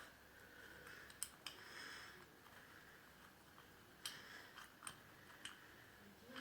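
Mostly near silence, with a few faint sharp clicks and a brief soft scrape of a hand tool on small engine parts.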